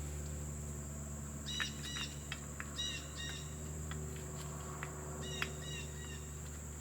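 A few short, light metallic clinks as a motorcycle rear brake caliper mounting bracket and its parts are handled and fitted by hand, clustered in the first half and once more later, over a steady hum and a high steady whine.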